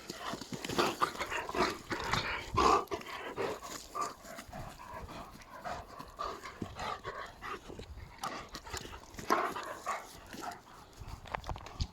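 East European Shepherd dog making a string of short, irregular sounds up close, with scattered clicks and knocks.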